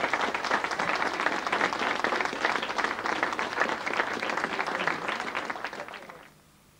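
Studio audience applauding, a dense steady clapping that fades away about six seconds in.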